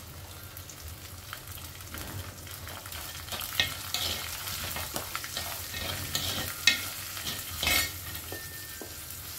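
Peanuts, curry leaves and green chillies sizzling in hot oil in a clay pot. From about two seconds in, a steel spoon scrapes and clicks against the clay as the mixture is stirred.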